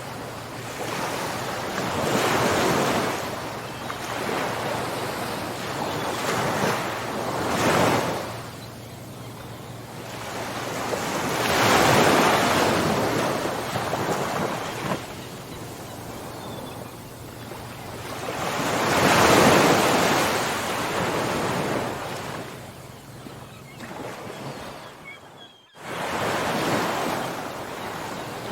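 Ocean waves breaking and washing up a shore in slow swells that rise and fall every few seconds, with two bigger breakers about twelve and nineteen seconds in. The sound drops out for a split second near the end.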